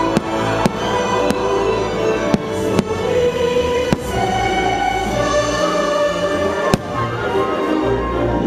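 Fireworks show soundtrack music with a choir, played over loudspeakers, with several sharp firework bangs, the loudest near the end.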